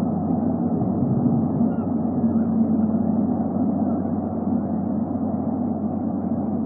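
Steady low rumbling background noise on a nest-cam microphone, with a few faint short chirps.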